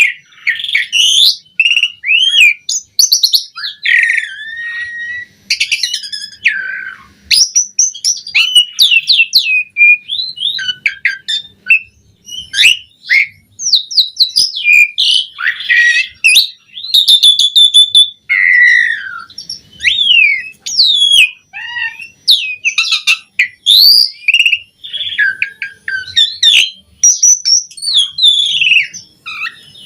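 Asian pied starling (jalak suren) singing a long, varied song of whistles, chirps and rising and falling glides, phrase after phrase with short breaks.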